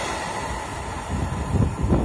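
Freight train receding after passing, its rolling noise fading away, with low gusts of wind buffeting the microphone about a second in.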